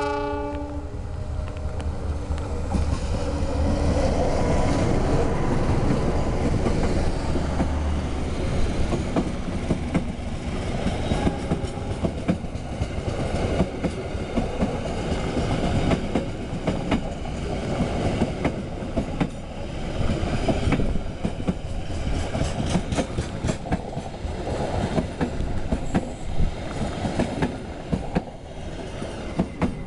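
Diesel-hauled passenger train passing close by. A horn blast cuts off right at the start, then the locomotive's diesel engine rumbles past for the first several seconds. The coaches' wheels then clatter over the rail joints for the rest of the pass.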